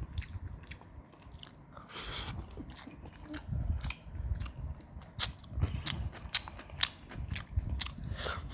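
Close-up chewing and crunching of a mouthful of food, with many quick wet mouth clicks and smacks over soft, uneven low sounds of chewing.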